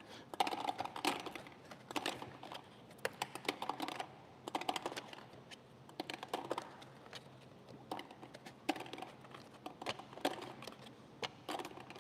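Plastic table-tennis balls clicking and clattering as they are dropped by hand, a few at a time, into a lottery draw machine. The clicks come in irregular clusters.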